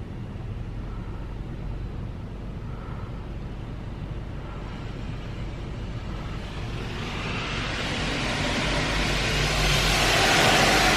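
Automatic car wash equipment running: a steady low rumble, joined about halfway through by a hiss of spraying water or blowing air that grows steadily louder.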